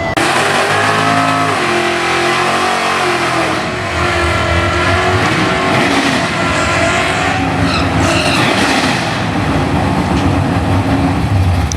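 Drag-racing cars' engines running hard at full throttle, with the pitch climbing and dropping in steps as they shift through the gears.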